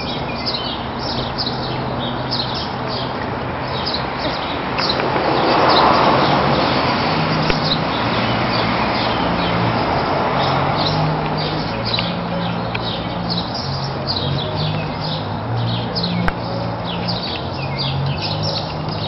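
Small birds chirping in quick, repeated short calls throughout, over steady outdoor background noise. A rush of noise swells and fades about six seconds in, and a low drone sets in soon after.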